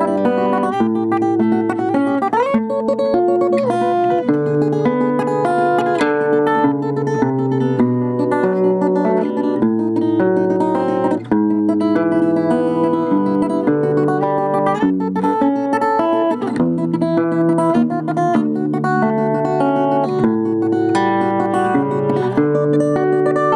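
Russian seven-string acoustic guitar played solo in a romance arrangement: a plucked melody over bass notes, with a rising slide about two seconds in.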